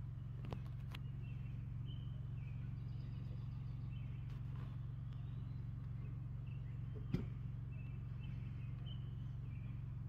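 Short, faint bird calls repeating now and then over a steady low hum, with a single sharp click about seven seconds in.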